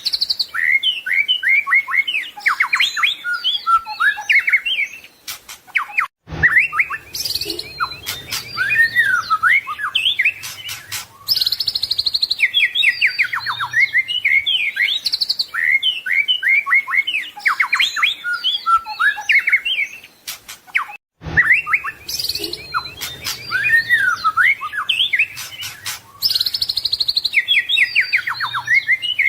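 White-rumped shama (murai batu) singing a rapid, varied song of whistles, trills and harsh notes, rich in mimicked phrases. It breaks off twice for an instant, about 6 and 21 seconds in.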